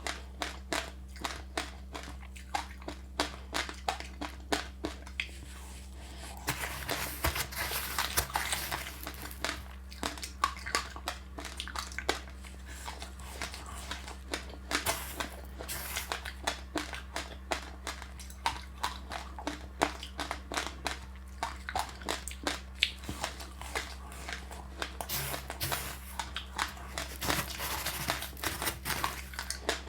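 Close-up chewing of crunchy passionfruit pulp and seeds with sesame seeds: a steady run of crisp crunches, several a second, with a couple of stretches of softer rustling.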